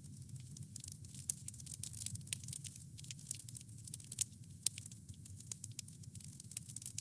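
Wood fire crackling: irregular quick pops and snaps over a steady low rumble of the flames.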